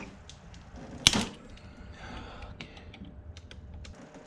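Hand tools clicking and tapping on metal at the engine: one sharp click about a second in, then a run of light ticks.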